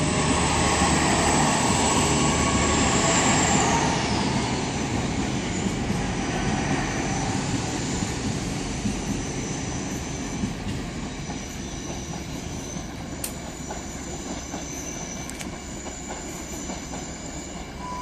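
Great Western Railway Class 800 IET train pulling out and moving away along the track, with a high whine that falls in pitch a few seconds in. The sound fades steadily as the train draws off.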